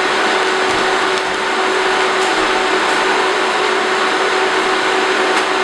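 IBM IntelliStation POWER 9111-285 workstation's cooling fans running at high speed: a very loud, steady rush of air with a steady hum. This is the fans before they slow down after power-on.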